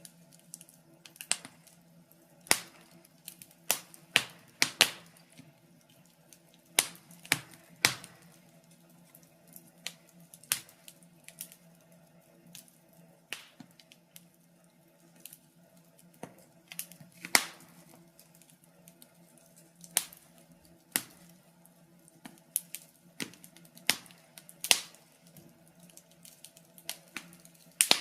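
Wood fire crackling: irregular sharp pops and snaps, sometimes several in quick succession, with quieter stretches between, over a faint steady low hum.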